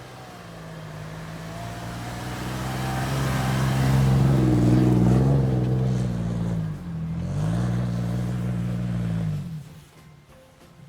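Off-road 4x4's engine revving hard under load, rising to its loudest about halfway through. It eases briefly, then pulls again, and the throttle comes off about a second before the end.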